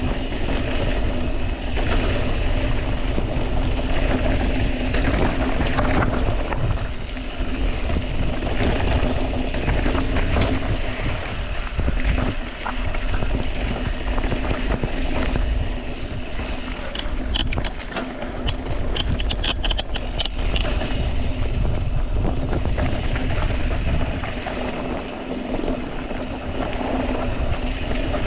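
Fast mountain bike descent: wind rushing over the microphone and tyres rolling over dirt and rock, with the bike rattling. A run of sharp clicks and rattles comes about 17 to 20 seconds in.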